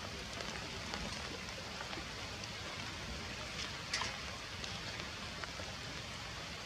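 Steady rain falling, with scattered drops ticking on a surface and one louder drop about four seconds in.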